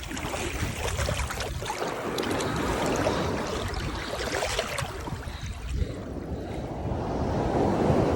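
Ocean surf rushing and washing up the beach, with wind buffeting the microphone. The rush swells and eases, dropping off about six seconds in and building again near the end.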